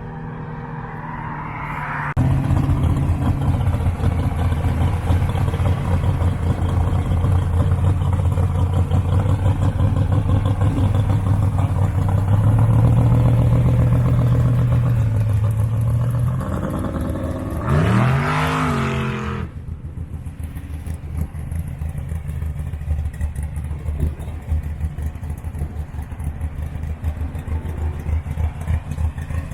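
Car engine idling loud and steady, stepping up slightly in speed, then one quick rev that rises and falls a little past halfway, after which it settles back to a quieter, uneven idle.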